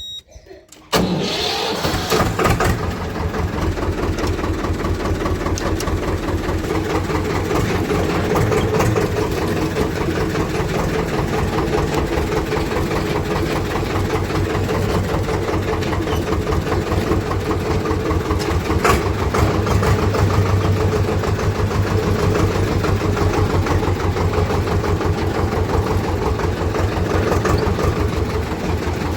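Diesel tractor engine starting about a second in, then running steadily with a fast, even chug.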